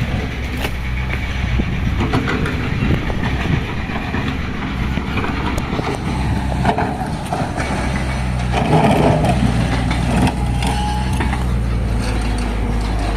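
A moving vehicle: a steady low rumble with engine hum, scattered rattles and knocks, and a louder stretch about two-thirds of the way through.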